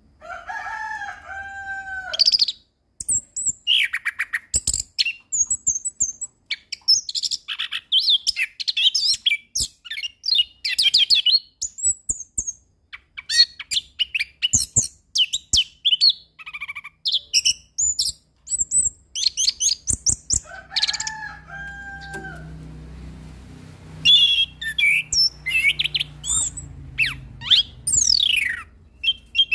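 Orange-headed thrush (anis kembang) singing a long, varied song of rapid whistles, trills and chattering phrases, some sliding up or down, with brief pauses between phrases.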